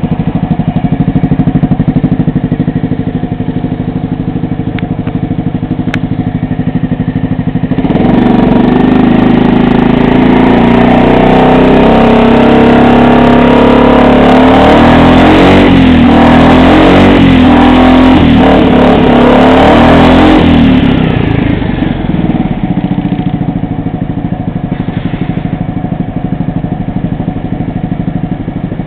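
Honda Forza Z 250 cc scooter's single-cylinder engine idling through an aftermarket stainless upswept muffler. It is revved up at about eight seconds in and held and blipped at higher revs for around thirteen seconds, then drops back to a steady idle.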